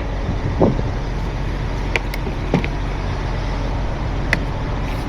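Heavy tow truck's diesel engine idling steadily, with a few short, sharp knocks over it.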